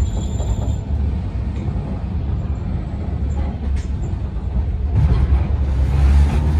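Sangi Railway Hokusei Line electric railcar Mo 275 running on its narrow 762 mm gauge track, heard inside the passenger car: a steady low rumble of wheels and running gear. It grows louder about five seconds in.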